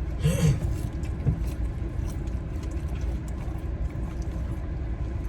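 A steady low rumble, with a person's short hummed vocal sound about half a second in.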